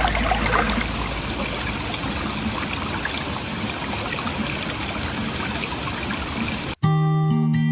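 Mountain stream flowing, a steady rush of water. Near the end it cuts off abruptly and guitar music begins.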